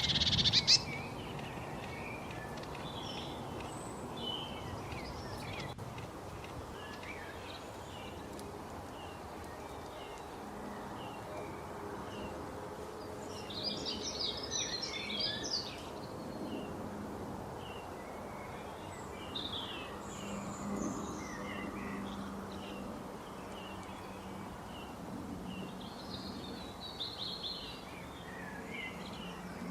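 Several wild birds chirping and calling over steady background noise, with a quick flurry of rapid chirps about halfway through. There is a brief loud noise at the very start.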